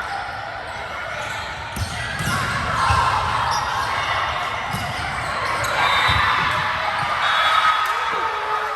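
Volleyball rally in a gymnasium: the ball thuds on hands and floor four or five times, amid players' calls and spectators' chatter echoing around the hall.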